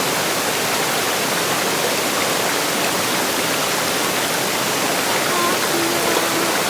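River water rushing steadily, a loud, even wash of flowing water.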